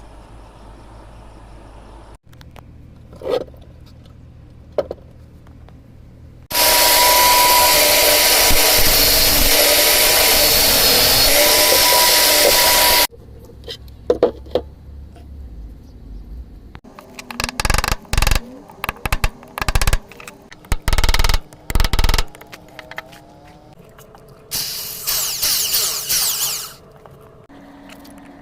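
A power tool runs loudly and steadily for about six seconds, with a steady whine through the noise. Then come a run of sharp knocks and scrapes and a shorter burst of tool noise near the end.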